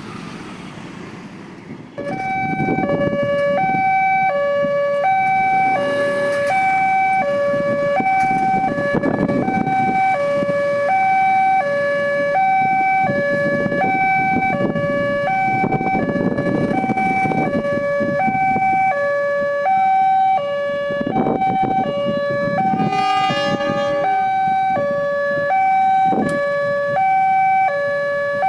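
Railway level-crossing warning alarm that starts about two seconds in and keeps alternating between a low and a high tone, signalling that a train is approaching and the barriers are closing. Road traffic rumbles underneath.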